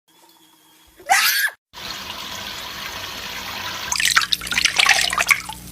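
A short, loud screech about a second in, followed after a brief break by running water with splashing and dripping that grows busier from about four seconds in.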